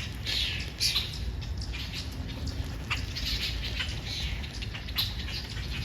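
Red squirrels chattering: rapid, high-pitched, squeaky calls that come and go, with a few sharp knocks about a second, three seconds and five seconds in.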